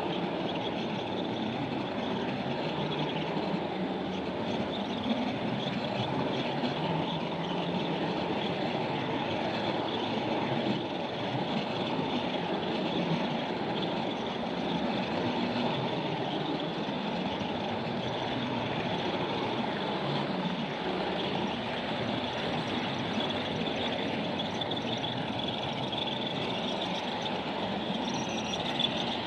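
A train running steadily on its track, a continuous rushing rumble without clear wheel clacks.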